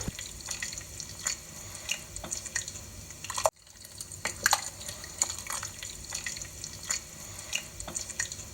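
Water dripping: irregular single drops falling at an uneven pace, with a brief sudden dropout about three and a half seconds in.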